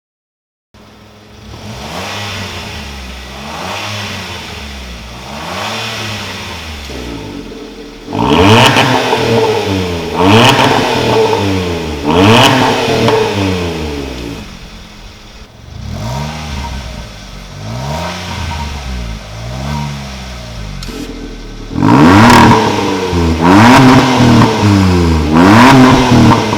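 Kia Ray's three-cylinder engine through a custom single variable exhaust, revved again and again with a rise and fall in pitch about every two seconds. The exhaust note turns much louder about eight seconds in, quieter again midway, and loud again near the end.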